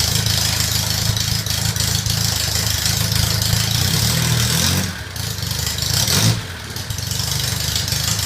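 1948 Crosley COBRA four-cylinder engine running steadily just after starting, with its speed rising and falling briefly about five to six seconds in.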